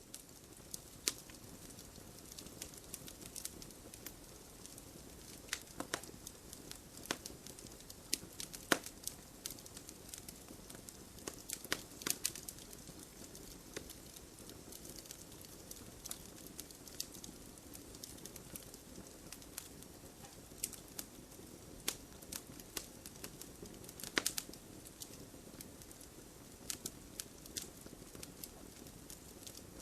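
Wood burning in a wood stove, crackling: irregular sharp pops and snaps over a soft steady hiss, a few pops louder than the rest.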